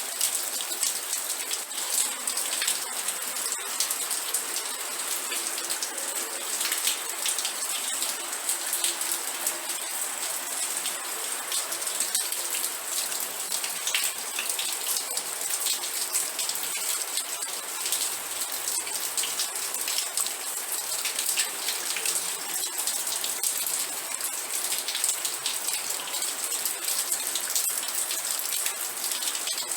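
Steady rain falling, with many sharp individual drop hits throughout.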